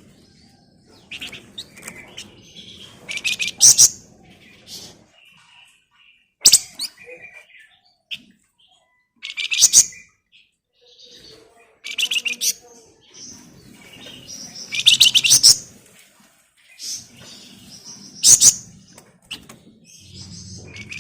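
Flamboyan songbird singing a rapid, rattling high-pitched trill ('ngebren') in loud bursts about every two to three seconds, with softer sharp chirps in between.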